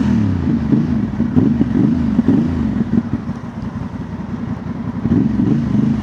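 A 2025 Honda Transalp's 755 cc parallel-twin is running through a Dominator MX2 slip-on exhaust with its dB killer still fitted. The engine note rises and falls repeatedly as the throttle is worked. It eases off for a couple of seconds past the middle, then picks up again near the end.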